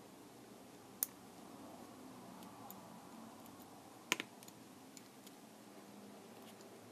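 A few sharp, small clicks and taps of hard plastic parts being handled, with a louder double click about four seconds in.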